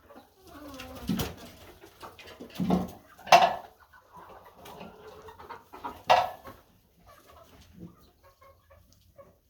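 Chickens clucking, with a few louder calls.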